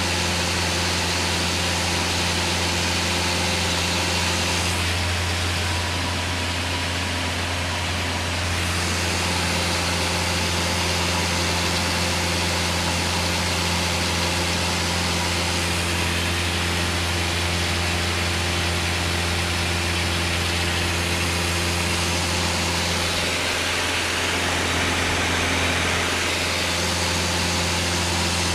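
Single-engine Cessna's piston engine and propeller droning steadily in cruise, heard from inside the cabin. The drone holds an even pitch and level, with a slight change in its tone about five seconds in and again near the end.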